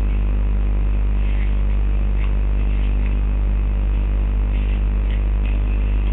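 Steady low electrical hum, unchanging throughout, with a few faint ticks on top.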